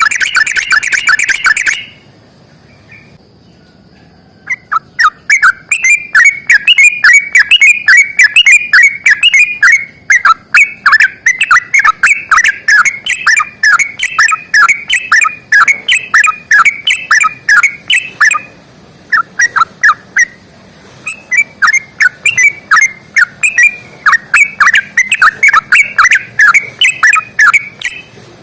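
Yellow-vented bulbul (trucukan) singing a long, fast, chattering song of loud repeated notes. A short burst comes at the start. After a pause of a couple of seconds, the song runs on in long strings with brief breaks.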